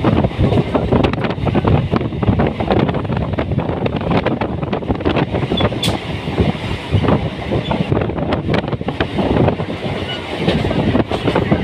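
Indian Railways passenger train running, with steady rattling and knocking from the wheels and carriages, and wind buffeting the microphone.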